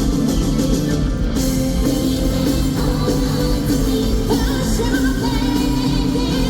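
Live J-rock band playing loud and steady, with a female lead vocalist singing over electric guitars, bass and drums, heard through a handheld recording in a large arena.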